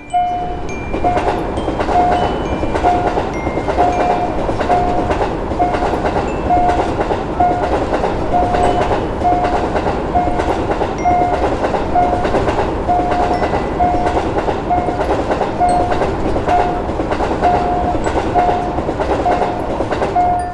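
A train passing a railroad crossing, its wheels clattering in a steady rumble, while the crossing's warning signal sounds a short steady tone just under once a second.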